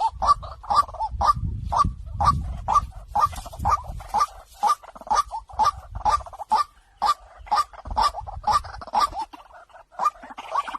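White-breasted waterhen calls: a short, harsh note repeated about twice a second, with a brief gap near the end. This is a recorded call mix of the kind played as a lure.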